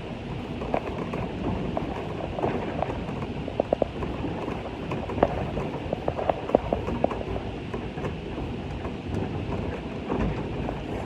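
Railway brake van in motion on a train: a steady rumble with frequent sharp clanks and rattles.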